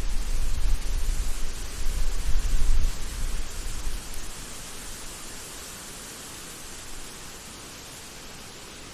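Steady rushing hiss of outdoor ambience. For the first four seconds a gusty low rumble lies under it, then drops away and leaves the even hiss.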